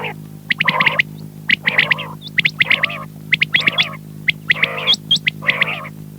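Quail calling over and over, in short bursts of pitched notes about once a second, with sharp high upswept notes between them, over a steady low hum.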